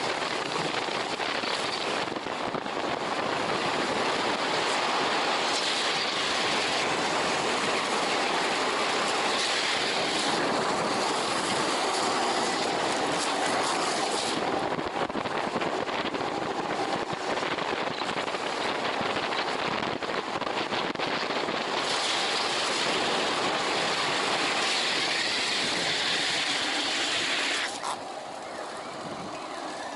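Streetluge wheels rolling fast on asphalt with wind rushing over the microphone, a steady roar that drops off abruptly near the end.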